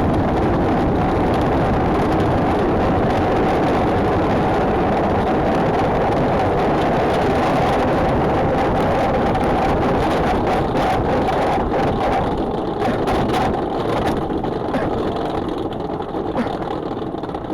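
Steady rush of air and rolling, mechanical noise heard from the cockpit of a human-powered aircraft under way, with a steady hum just under 1 kHz. About twelve seconds in the rush thins out and turns patchier, with scattered clicks.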